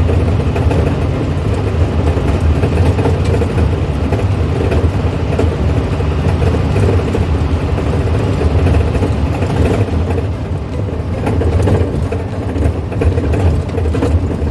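A 1970s Volkswagen car underway, its engine running steadily under the road noise; the sound eases off briefly about ten seconds in, then picks up again.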